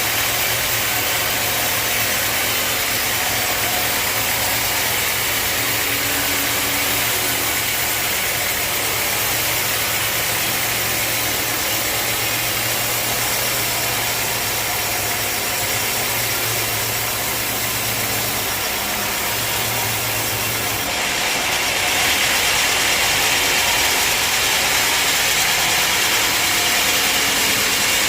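Sawmill machinery running steadily, with a low hum under a loud hiss; about 21 s in the sound changes and grows somewhat louder and brighter.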